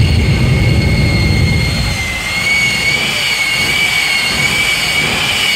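Jet truck's turbine engine running with a steady high-pitched whine. A deep rumble comes in at the start and dies away after about two seconds.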